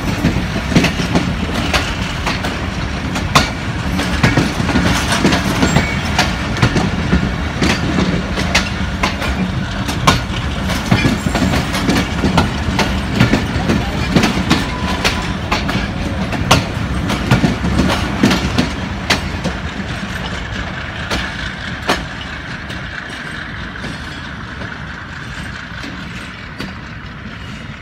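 Passenger coaches of a departing train rolling past, their wheels clacking over rail joints in an uneven run of sharp clicks over a steady rumble. The sound fades over the last several seconds as the train draws away.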